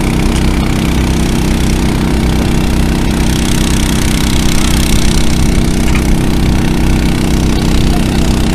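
Small petrol-engine 3-inch water pumps running steadily at a constant speed.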